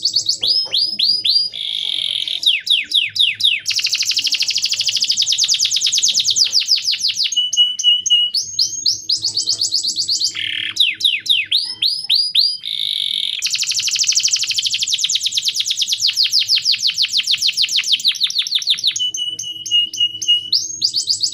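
Male canary singing continuously in fast trills: long runs of rapidly repeated notes, about nine a second, with short steady whistled notes between the phrases.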